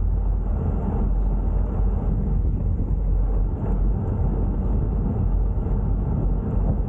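Steady low rumble of wind and road noise on a bicycle-mounted camera's microphone while riding.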